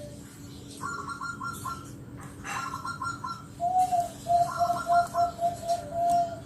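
Zebra dove (perkutut) cooing: a fast run of about eight loud coo notes in the second half, with bursts of quicker, higher notes earlier on.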